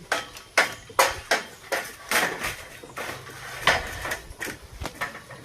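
A hammer striking metal in a quick, uneven series of blows, about three a second, each with a short bright ring.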